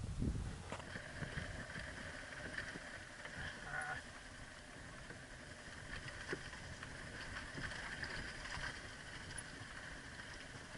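Faint low rumble with scattered small clicks and knocks: a motorcycle rolling down a steep trail of loose rocks.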